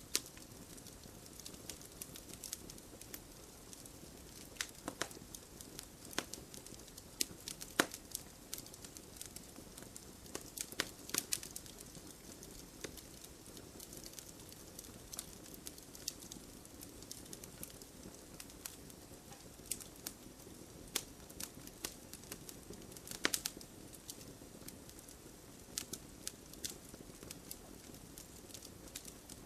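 Wood campfire burning, with irregular crackles and sharp pops over a steady low hiss. A few pops stand out louder, about eight seconds in, around eleven seconds and again near twenty-three seconds.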